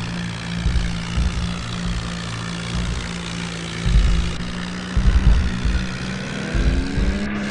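Tractor diesel engine running steadily under power, with irregular deep low thumps, its pitch rising near the end as it revs up.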